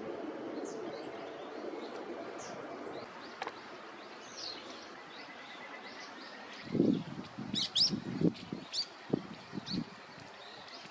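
Small wild birds chirping and calling, with many short high notes and a cluster of sharp, bright calls about eight seconds in. A low rumble fades out in the first few seconds. From about seven seconds in comes an irregular run of dull low knocks, the loudest sound.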